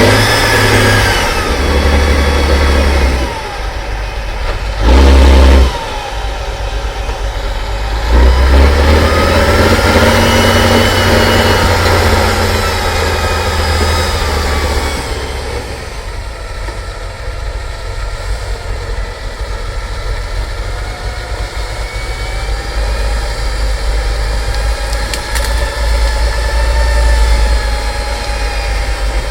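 Off-road trial truck's engine revving hard in repeated surges, the pitch climbing and falling, then settling into lower, steadier revs in the second half with slow rises near the end.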